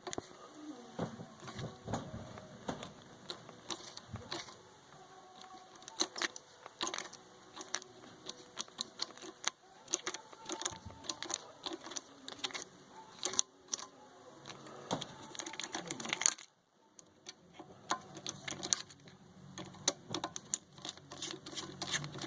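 Irregular small metal clicks, taps and scrapes of a screwdriver and a screw being worked into a small threaded hole in a Holley fuel pump's metal body, with a notched screw serving as a makeshift tap.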